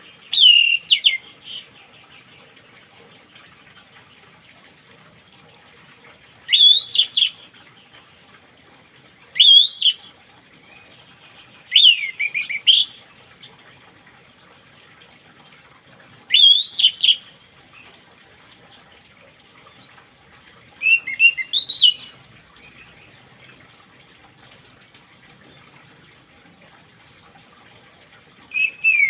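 Orange-headed thrush singing short, loud whistled phrases of about a second each, seven in all, spaced a few seconds apart, over a faint steady hiss.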